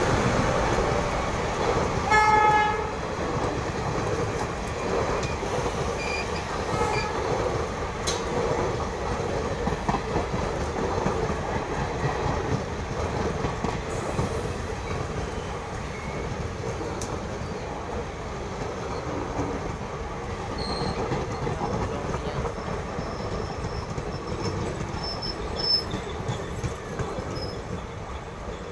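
An express train's passenger coaches rolling past, with a steady rumble and wheels clattering over rail joints. A short blast of the electric locomotive's horn sounds about two seconds in.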